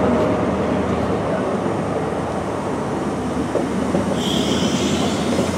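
Passenger train coaches rolling past at a platform, a steady rumble of wheels on rail. About four seconds in, a brief high squeal from the wheels joins it.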